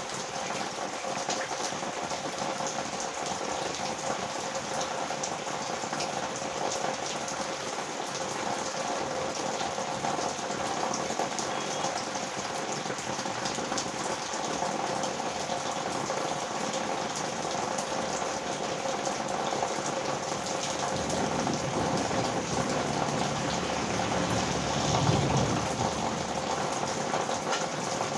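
Heavy rain falling steadily, a dense hiss of many small drop ticks. Late on, a low rumble builds over a few seconds, peaks and fades.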